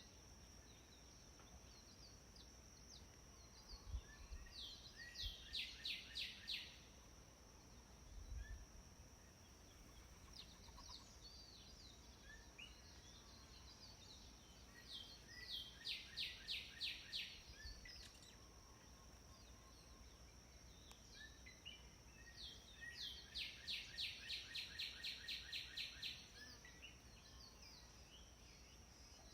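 A songbird sings three phrases, each a few rising chirps followed by a rapid run of repeated notes, about four a second. A steady high-pitched drone runs underneath.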